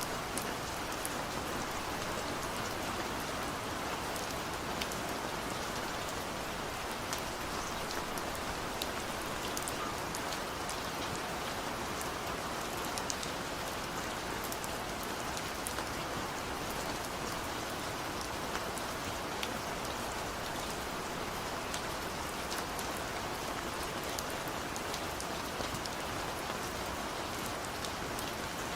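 Steady rain falling, an even hiss with many small drop impacts ticking on a surface.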